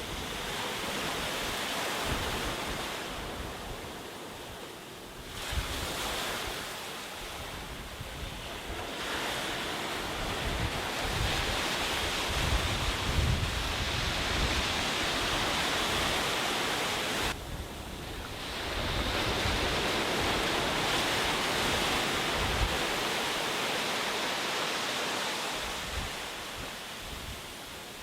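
Sea waves breaking and washing up a beach in repeated surges that swell and ebb every several seconds, with wind buffeting the microphone as a fluttering low rumble.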